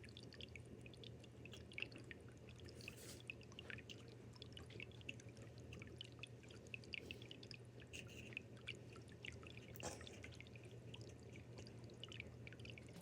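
Fine white sand trickling into a dry planted-tank layout, a faint scattered patter of tiny grain ticks, over a low steady hum.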